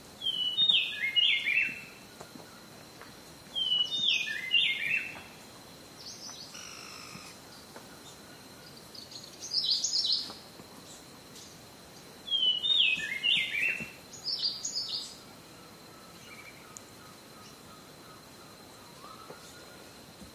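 Wild birds singing: a phrase of quick notes stepping down in pitch comes three times, with shorter, higher note groups between. A thin steady high tone runs underneath.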